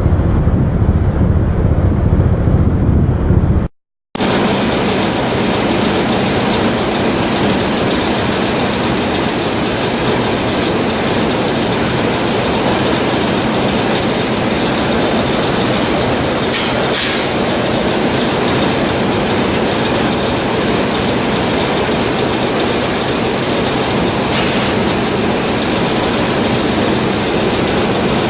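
Low rumble of wind on the microphone, then after a cut about four seconds in, the ship's diesel machinery running steadily with two constant high-pitched whines over a loud, even noise.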